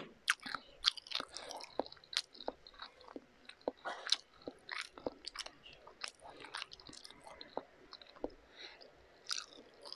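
A person chewing a mouthful of pancit canton instant noodles and fried egg, with irregular small wet mouth clicks.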